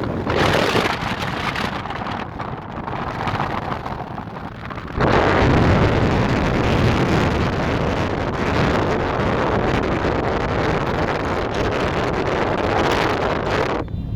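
Wind blowing hard and buffeting the microphone, a rumbling rush that gusts stronger about five seconds in.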